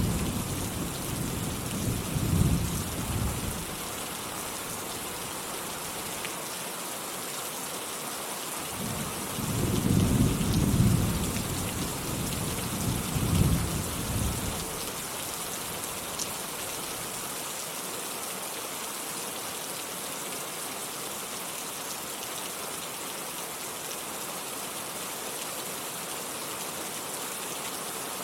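Steady rainfall hissing, with rolling thunder rumbling twice: first at the start, fading by about 3 seconds in, then a longer roll from about 9 to 14 seconds in. After that only the rain.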